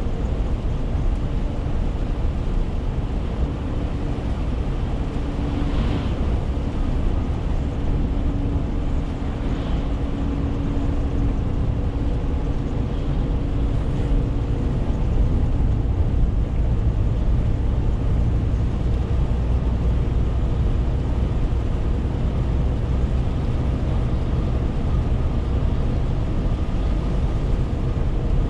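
Renault T520 truck driving along: its 13-litre six-cylinder diesel engine and road noise make a steady low drone with a faint constant hum, and a second faint tone comes in for about ten seconds in the first half.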